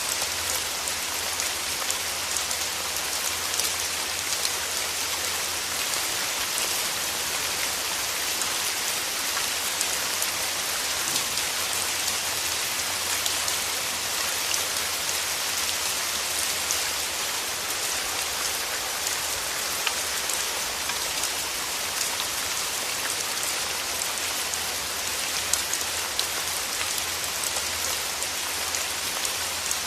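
Steady rain falling through forest trees, a constant hiss of many fine drop patters on leaves.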